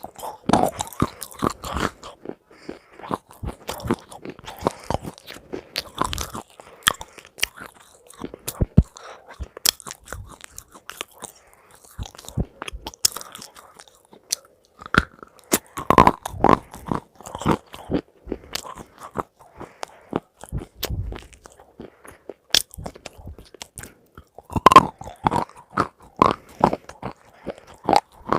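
Crunchy food being bitten and chewed, a quick irregular run of crisp crackles, with louder bursts of crunching about 16 and 25 seconds in.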